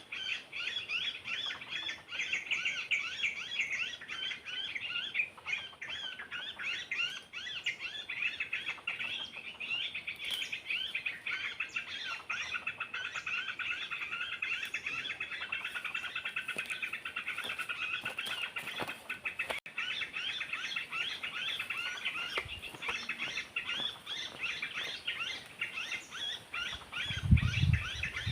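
Dense, continuous chorus of many small birds chirping and twittering rapidly, with a few low thumps near the end.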